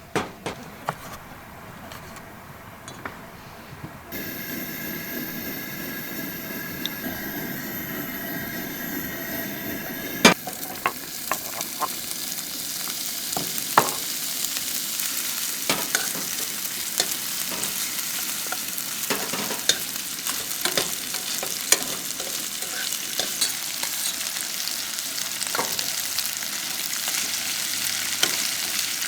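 Food frying in a pan over a camp stove, sizzling steadily and growing slowly louder, with clicks and scrapes of a cooking utensil. The full sizzle sets in with a sharp click about ten seconds in.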